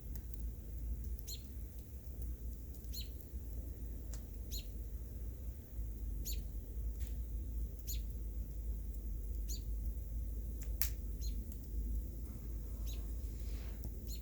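A small bird calling, a short high chirp repeated evenly about every one and a half seconds. Underneath is a steady low rumble, with a few sharp cracks.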